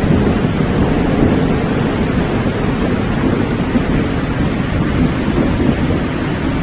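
Steady heavy rain with a continuous low rumble of thunder underneath, without any sharp cracks.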